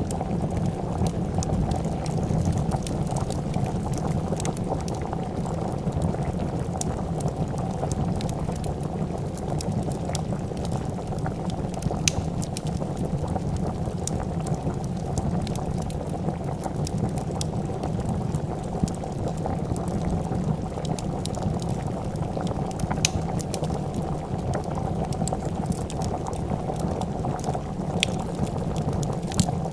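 A pot of soup bubbling steadily at a boil, with occasional sharp pops and crackles from a wood fire.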